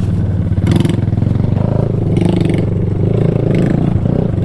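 Mini bike's 125 cc single-cylinder four-stroke engine running steadily at a low, even speed, with a few short scraping bursts over it.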